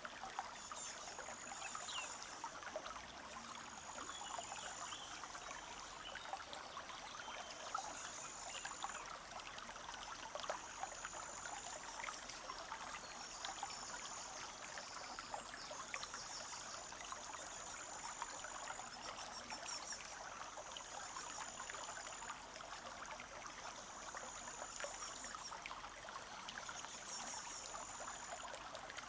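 A small forest stream trickling and babbling steadily over stones. Above it, a bird repeats a short, high-pitched phrase about every two seconds.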